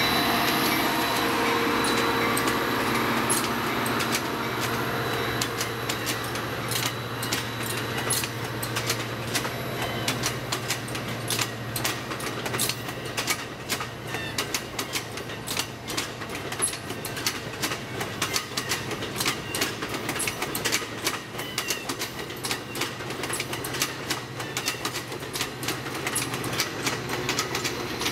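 AMT diesel-hauled commuter train of bilevel coaches rolling past: steady rail and wheel rumble with many sharp clicks of wheels over rail joints. A low engine hum from the lead locomotive fades out about halfway through.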